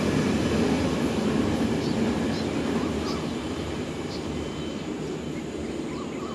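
Rumble of a State Railway of Thailand freight train fading steadily as it moves away, with a few faint high chirps in the middle.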